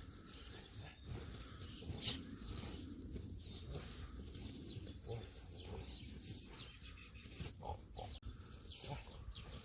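Faint noises from an American Bully dog over a steady low rumble of outdoor noise.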